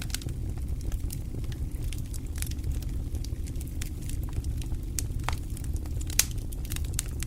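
Wood fire burning in a fireplace: a steady low rumble of flames with frequent, irregular crackles and pops, the sharpest pop a little after six seconds in.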